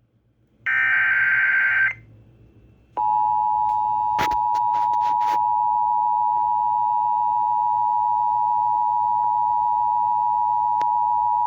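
Emergency Alert System broadcast over FM radio: a warbling digital header burst of about a second, then the EAS two-tone attention signal held steady for about eight and a half seconds, with a few clicks a second or so after it starts. It announces a National Weather Service severe thunderstorm warning.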